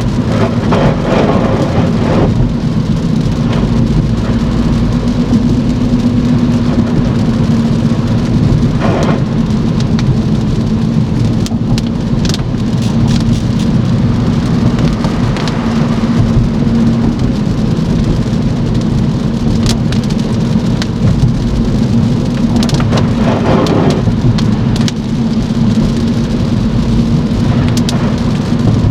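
Steady rain beating on a moving car, over a continuous low road and engine rumble with a steady hum. A few brief swishes stand out, one near the start, one about nine seconds in and one near the end, along with scattered sharp drop ticks.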